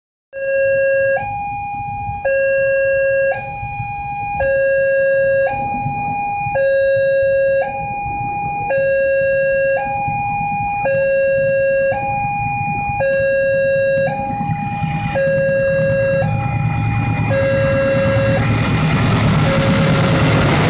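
Railway level-crossing warning signal sounding two alternating tones, low then high, each held about a second. About two-thirds of the way through, a rising rush of train noise grows louder as a train approaches, and the tones fade beneath it near the end.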